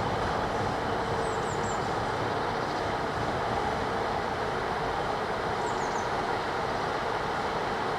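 Diesel engine of a Colas Rail track maintenance machine running steadily, with faint high chirps twice.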